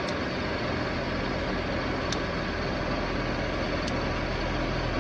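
Car engine running under the hood, with faint sharp ticks about every two seconds: the clicking noise the customer complained of.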